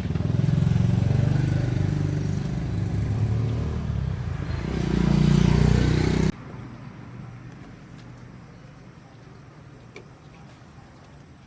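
Daewoo car engine running, revving up about five seconds in, then cutting off abruptly about six seconds in. Afterwards only a faint background with a few small clicks.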